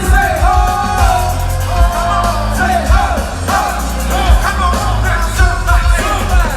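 Live R&B concert music: a singer's voice over a heavy, regular bass beat, played loud through the venue's PA.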